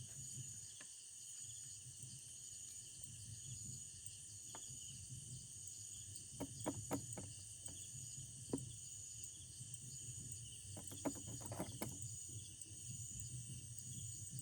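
Crickets and other night insects chirring steadily at a high pitch, with a few faint clicks and taps scattered through the middle.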